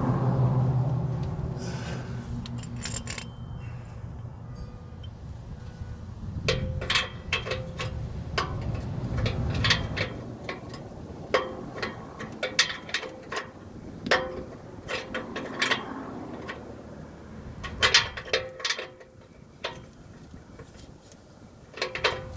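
Hand tools clinking and tapping against metal under a car: a run of sharp metallic clicks and clanks, some ringing briefly, at irregular intervals, while an oxygen sensor is being worked on. A low rumble fades out over the first two seconds.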